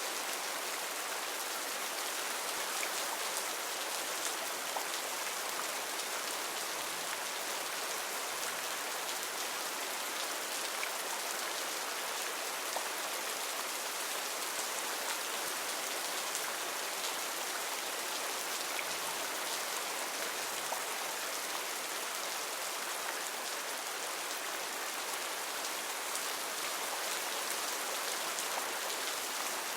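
Heavy rain falling steadily on rainforest foliage: an even hiss of rain with scattered individual drop ticks.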